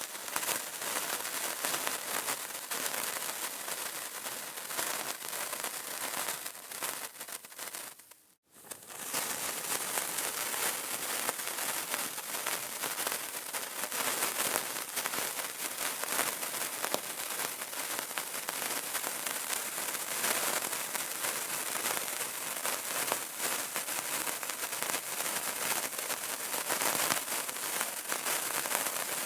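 Dense, continuous crackling and fine popping of a burning candle. About eight seconds in it dips briefly to near silence and then comes back.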